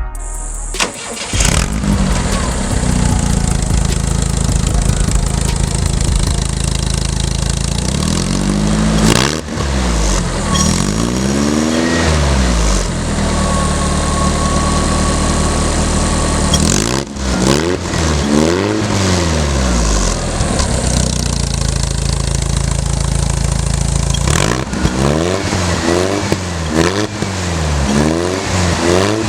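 Volkswagen Beetle's air-cooled flat-four engine breathing through a 'corneta' header exhaust, running and being revved again and again. The pitch rises and falls in blips: a few about a third of the way in, more past the middle, and a quick run of them near the end.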